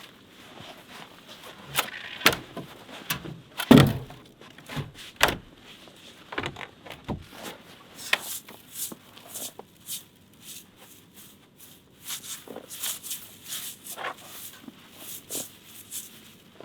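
Scattered knocks, clicks and rustling from handling things at close range, with one heavy thump about four seconds in.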